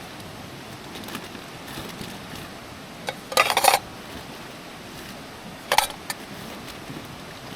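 Metal camp gear being handled: a half-second clatter about three seconds in, then a couple of short clinks around six seconds.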